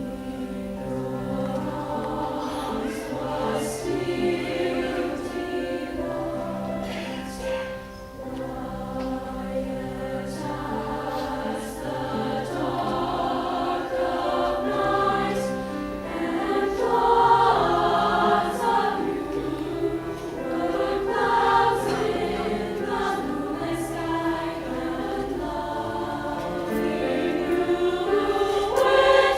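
Women's choir singing with piano accompaniment, swelling louder partway through and again near the end.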